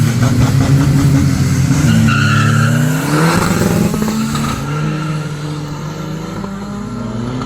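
Car engine at high revs with tyres squealing, its pitch rising briefly near the middle. The tyre noise stops about two-thirds of the way through and the engine runs on steadily.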